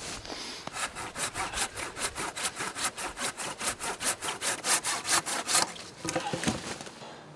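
Hand saw cutting wood in quick, even strokes, about five a second, stopping about five and a half seconds in, followed by a few softer knocks and rustles.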